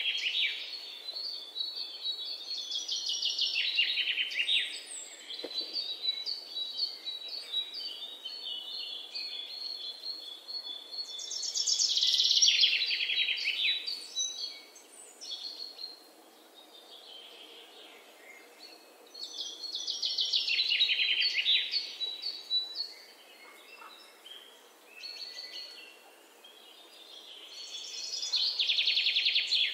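Bird song: a rapid pulsed trill of about two seconds that falls in pitch, repeated five times at intervals of roughly eight seconds. Fainter high chirps and a thin held whistle come between the trills.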